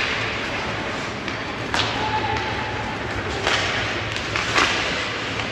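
Ice hockey play in an arena: a few sharp knocks of puck and sticks hitting the boards, over steady arena hum and the noise of skates and spectators.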